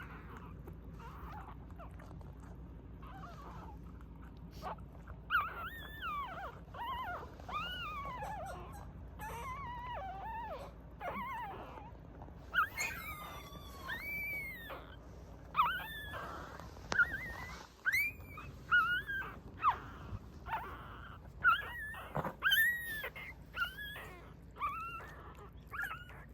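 A mame-shiba (small Shiba Inu) whining in a long series of high calls that rise and fall in pitch. The calls come faster and louder in the second half.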